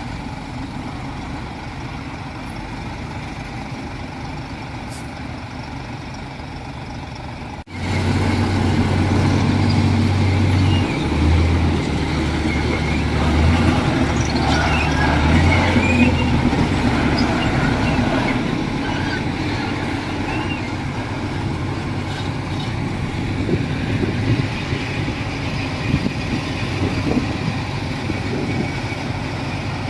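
Heavy diesel earthmoving machinery running steadily; the sound jumps suddenly louder about eight seconds in, with some scraping and clatter for a few seconds after.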